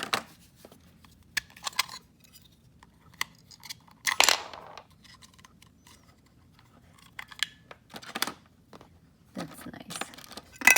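Handling noises from a dog training collar and its box: scattered clicks and taps with a few short scraping rustles, the loudest about four seconds in.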